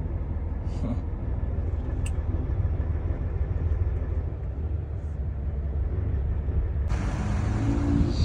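Heavy truck's diesel engine running with a steady low rumble. About seven seconds in, a loud even hiss sets in suddenly over it.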